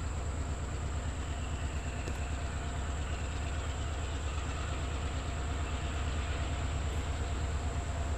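A train approaching from a distance: a low, steady locomotive rumble that grows slightly louder in the second half.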